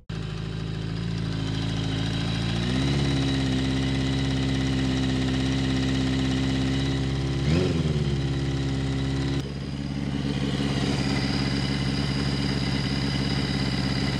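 Yamaha XJ650 motorcycle's inline-four engine running with the rattle ('klappert') it is being shown for. The engine steps up to a steady faster idle about three seconds in, is blipped briefly near the middle, then drops back to a lower steady idle.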